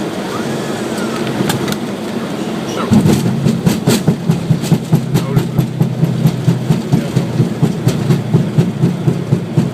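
Boeing 737-800 touching down about three seconds in, heard from the cockpit: steady airflow noise turns suddenly into a loud low rumble from the wheels rolling on the runway, with regular thumps about three or four times a second as the tyres run over the runway's rough, poorly maintained surface.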